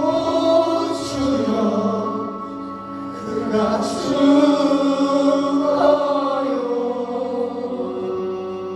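Live worship song: voices singing over long sustained instrumental chords.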